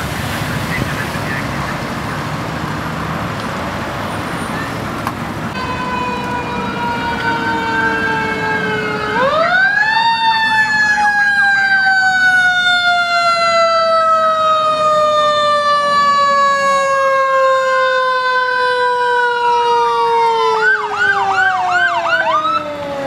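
Emergency-vehicle sirens passing on a code 3 response: one siren sweeps up sharply and then falls slowly over about twelve seconds, while a second siren sweeps up and down beside it, breaking into a rapid yelp of several quick sweeps near the end, over the sound of road traffic.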